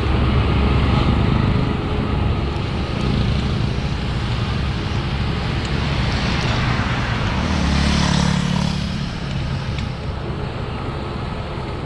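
Steady wind and road noise on a GoPro action camera while riding a bicycle, with a motor vehicle passing about eight seconds in.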